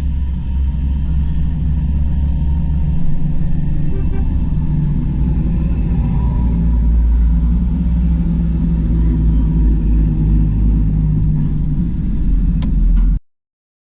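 Diesel tractor engines giving a loud, steady low rumble, which cuts off suddenly near the end.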